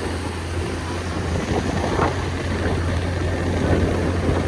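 Riding on a motorbike: wind rumbling on the microphone over engine and road noise, a steady low drone.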